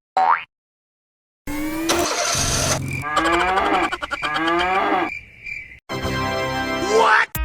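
Cartoon background music with comic sound effects: a short rising glide, about a second of silence, then busy music with repeated swooping glides in pitch.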